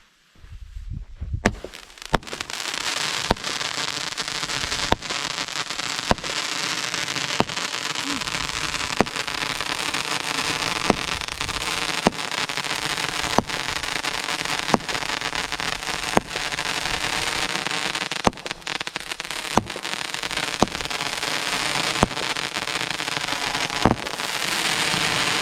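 Raining Comets consumer firework going off: a dense, steady crackle with a sharp pop about once a second. It starts about a second and a half in.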